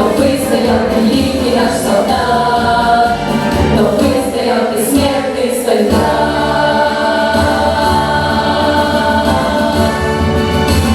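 Vocal ensemble singing a slow song in several voices over instrumental accompaniment.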